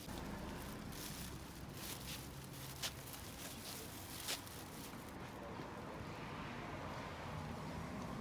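Faint, steady outdoor background noise, with a few sharp clicks in the first half.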